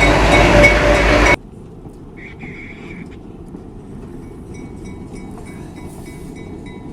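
Train running on the track, loud, with several steady whining tones over the rumble. It cuts off abruptly about a second and a half in, leaving only a faint low rumble.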